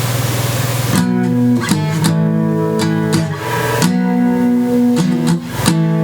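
Strummed chords on an acoustic guitar, struck several times and left ringing between strums. The chords start about a second in, after a steady hiss with a low hum.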